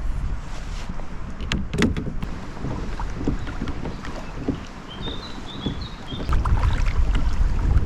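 Kayak moving on the water during trolling, with a few sharp knocks about one and a half to two seconds in. Wind rumbles on the microphone throughout and is heavier from about six seconds in.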